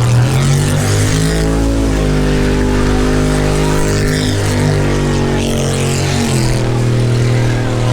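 V8 engine held at high revs. Its pitch steps down slightly about two seconds in and climbs again near the end, over a steady hiss.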